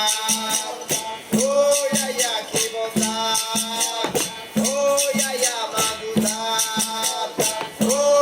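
Capoeira roda music: a berimbau's repeating twangy phrase comes back about every two seconds over the steady rattle of a caxixi shaker, with hand percussion.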